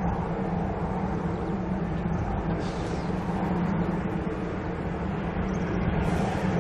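Steady low rumble of jet aircraft engines, holding even without rising or falling.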